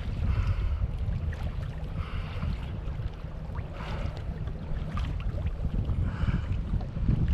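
Kayak paddle strokes, the blade swishing and splashing into the water about every two seconds, over a steady low rumble of wind on the microphone.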